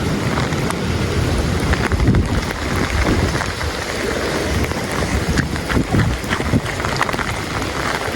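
Gusty storm wind rumbling and buffeting the phone's microphone, with rain and many small scattered ticks of drops hitting it.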